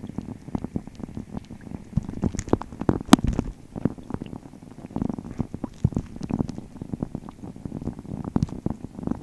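Rain falling on a pond, heard from underwater: a dense, irregular patter of muffled ticks over a low rumble, with one sharper, louder click about three seconds in.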